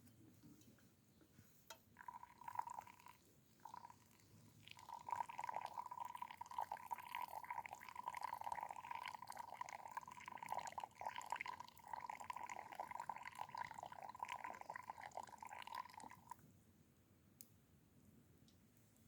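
Liquid poured in a thin steady stream, starting about two seconds in with a brief stop-and-start, then running on until it stops near the end.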